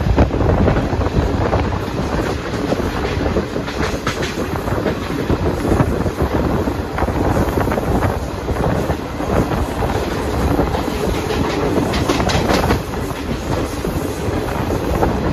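Garib Rath Express coaches running at speed, heard close to the open doorway. A steady loud rumble of wheels on the rails, with clickety-clack over the rail joints.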